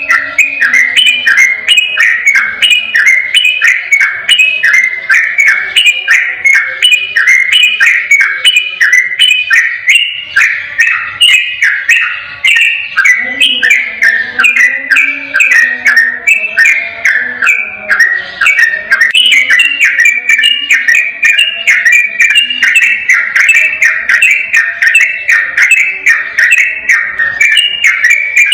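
Yellow-vented bulbul (trucukan) singing a long, unbroken run of fast whistled notes, about five a second, the rapid continuous 'ropel' song. A softer, lower warbling runs beneath it, fading out around a third of the way in and returning soon after.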